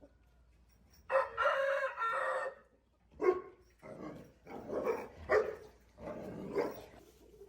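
A rooster crows once, a long call starting about a second in, followed by a series of shorter calls.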